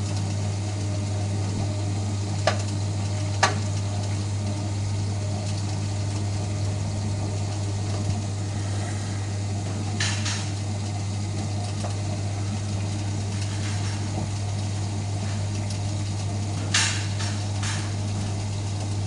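Hotpoint Aquarius WMF520P washing machine running with a steady low hum and rumble, with two short knocks early on and louder clattering bursts about ten and seventeen seconds in. The noise comes from the drum bearings moving about because the drum spider has broken.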